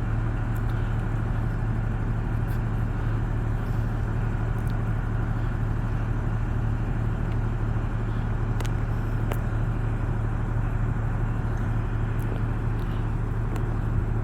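Class 43 HST power car's diesel engine running at a steady, unchanging drone.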